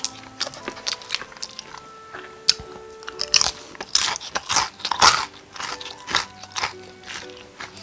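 Close-miked crunchy bites and chewing of crisp Korean-style whole fried chicken, a quick run of sharp crunches with the loudest bites a little past the middle.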